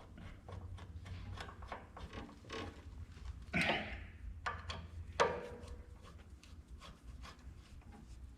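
Parts and hand tools being handled while fitting a piece onto a small bandsaw: a run of light clicks and knocks, with two louder knocks about three and a half and five seconds in, over a steady low hum.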